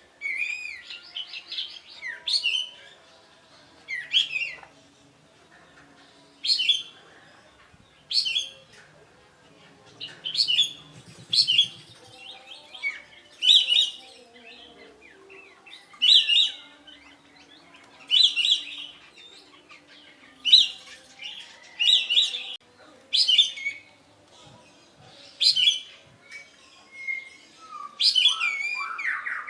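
Kapas tembak (a bulbul) calling: short, loud, sharp whistled phrases repeated about every two seconds.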